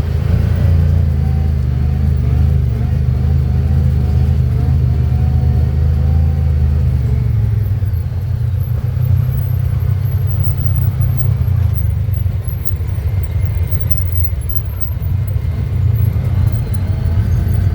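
Side-by-side UTV engine running steadily on the trail, easing off a little past the middle and picking up again near the end.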